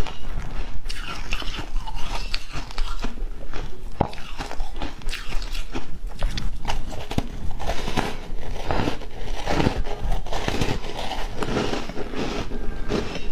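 Ice being bitten and chewed close to the microphone: a rapid, irregular run of crisp crunches.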